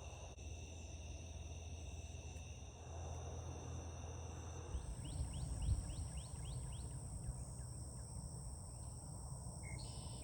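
Chorus of night insects, crickets or katydids, trilling steadily at several high pitches over a low rumble. A little past the middle comes a quick run of about eight rising chirps.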